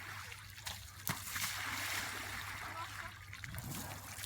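River water splashing and trickling during an elephant bath, with one sharp knock about a second in.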